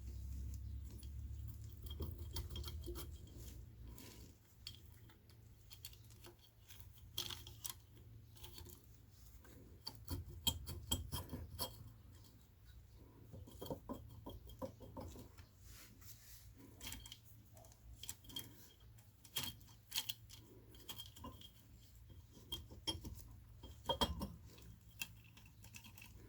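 Irregular metallic clinks and light knocks of hand tools and small metal parts being handled and set down during scooter engine repair work.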